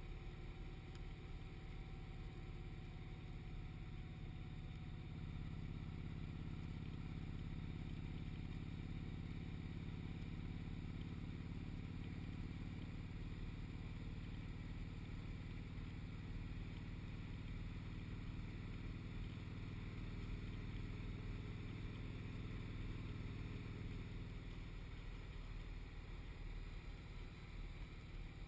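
Motorcycle engine running at road speed, with road and wind noise. The engine note grows stronger about five seconds in and eases off again near the end.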